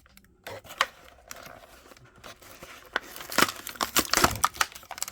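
Plastic and cardboard toy packaging being handled and pried open by hand: a few scattered clicks at first, then a dense run of crinkling and crackling from about three seconds in.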